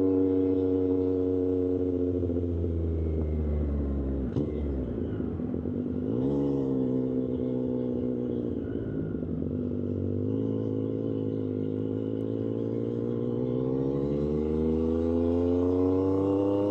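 Triumph Street Triple 765 RS's three-cylinder engine through an SC-Project aftermarket exhaust, heard from the rider's seat. The engine note falls as the bike slows, rises briefly about five seconds in, then climbs steadily as it accelerates over the last few seconds.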